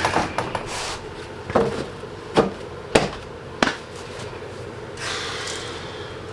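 Several sharp, separate knocks and clunks of tools and car parts being handled, about one every second for the first four seconds, followed by a brief scraping rustle about five seconds in.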